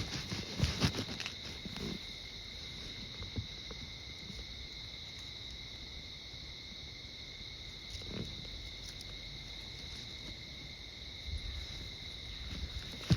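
Insects chirping steadily in a high, even drone at two pitches, with a person's footsteps on the walk path in the first two seconds and starting again just before the end; in between the walking stops and only the insects and a single faint thump are heard.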